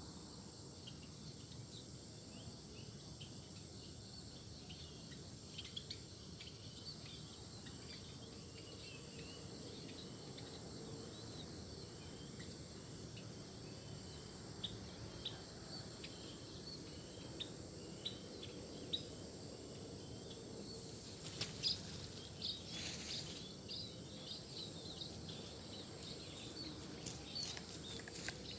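Faint outdoor ambience of many small birds chirping in quick short calls over a steady insect drone, getting busier about three quarters of the way through, with a brief rustle then.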